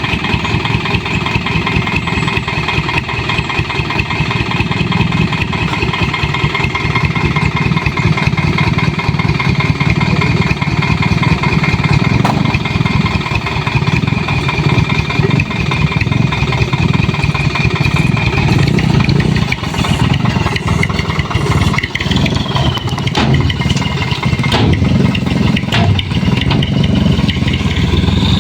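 Toyota Dyna dump truck's engine running steadily while the bed is tipped to unload sand, with a steady high whine over it that stops about two-thirds of the way through.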